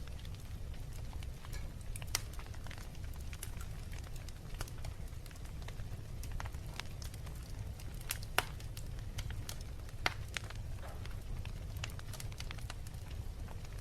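Wood fire burning in a fireplace, crackling with scattered sharp pops, the loudest about 8 and 10 seconds in, over a steady low rumble.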